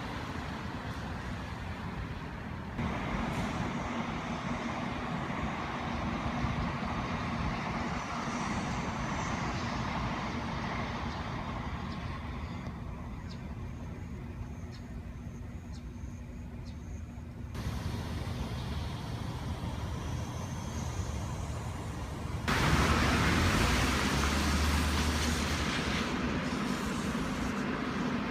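Railway locomotives and trains running, a steady mechanical noise with a low hum, in several short stretches that start and stop abruptly.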